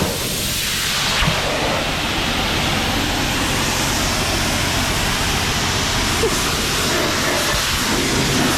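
Car-wash water spray hitting the car: a steady hiss that swells and fades as the spray sweeps past.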